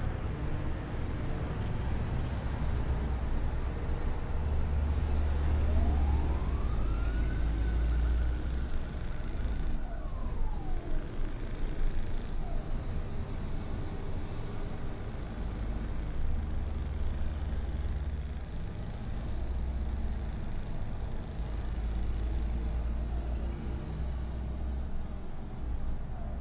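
Scania R730's 16.4-litre V8 diesel engine running as the truck drives, its low note steady with slight changes in load. A whistle rises in pitch, holds, then falls away about ten seconds in, and two short hisses of air come around ten and thirteen seconds in.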